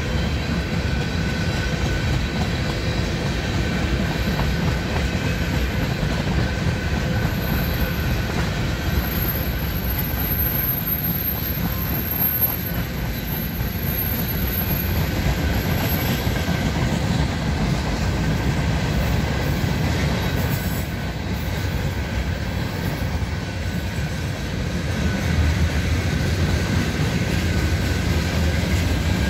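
Freight train of loaded tank cars rolling past: a steady rumble and clatter of steel wheels on the rails, with a faint high wheel squeal at times. The rumble grows louder near the end.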